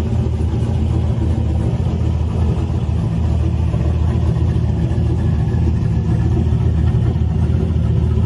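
Big V8 engine of a classic muscle car or gasser running with a deep, steady rumble, idling or creeping along at low revs.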